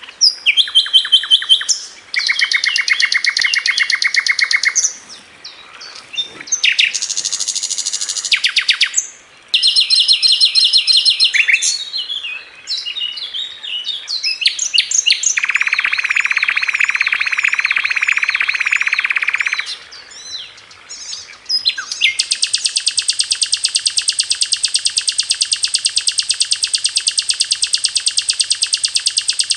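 Sikatan londo songbird singing a 'tembakan' song: a string of high chirps and fast rattling trills that change every second or two, then one long, very even rapid trill from about two-thirds of the way in.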